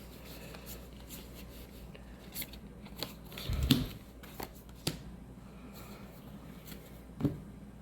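Magic: The Gathering cards handled and flipped through one by one: faint sliding with scattered soft clicks and taps, the loudest a tap with a low thump about halfway through and another near the end.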